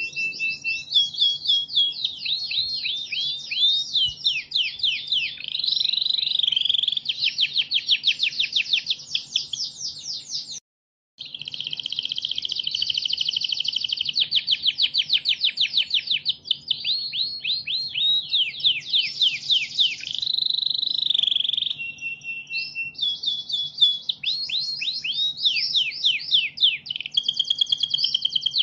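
Canary singing a long, continuous song of rapid trills, rolling repeated notes and falling sweeps, broken by a brief silence about eleven seconds in. A faint steady low hum runs underneath.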